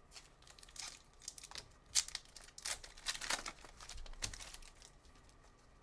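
A trading-card pack's wrapper being torn open and crinkled, with the cards handled, heard as a scattered run of short crinkles and rips.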